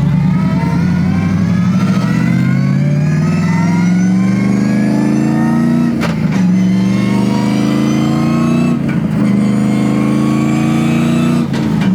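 Twin-turbo 6.2 V8 in a Ford Crown Victoria accelerating hard. The engine note climbs steadily and breaks off briefly three times as it shifts up through the gears.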